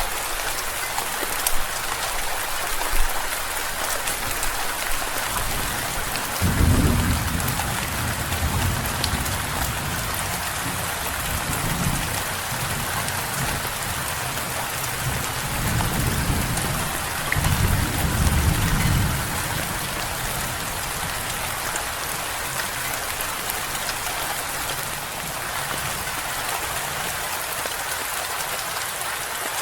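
Steady heavy rain falling, with low rolling thunder rumbling in several swells from about a quarter of the way in to past the middle.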